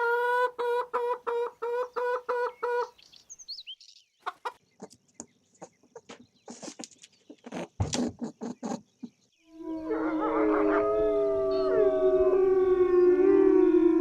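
A run of animal sound effects: first a quick series of repeated pitched calls, about three a second, then scattered sharp clicks and taps, then from about halfway on several canines howling together, long overlapping wavering tones.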